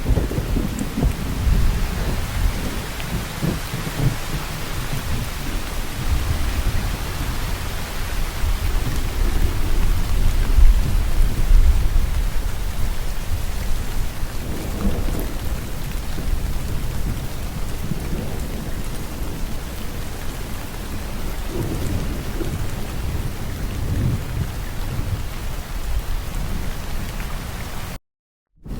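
Steady rain falling in a thunderstorm, with low rolling thunder rumbling underneath and swelling to its loudest about ten seconds in. The sound cuts out to silence for a moment near the end.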